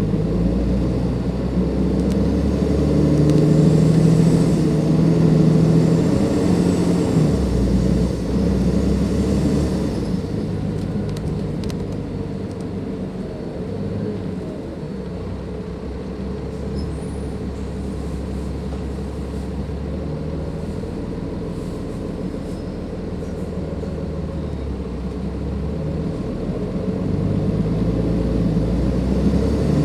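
Turbocharged Cummins ISLe340B diesel engine of a Dennis Enviro 500 double-decker bus running on the road. It is louder under load for the first several seconds, settles to quieter, steady running through the middle, and builds up again near the end.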